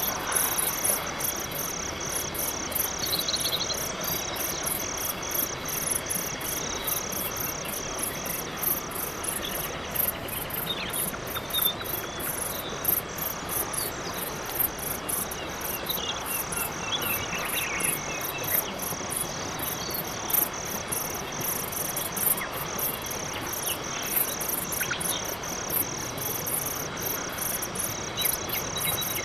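Cricket chirping steadily at about three chirps a second, pausing briefly twice, with a fainter high insect trill above it and a few short scattered chirps.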